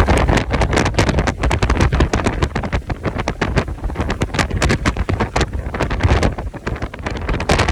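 Strong Santa Ana wind gusting hard against the microphone: a heavy low rumble broken by rapid, irregular crackling pops.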